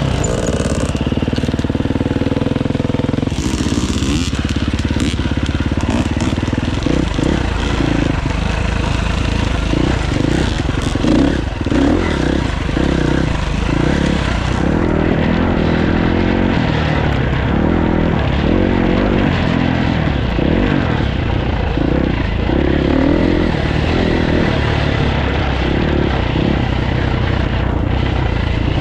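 Dirt bike engine being ridden along a trail, its revs rising and falling again and again as the throttle is worked.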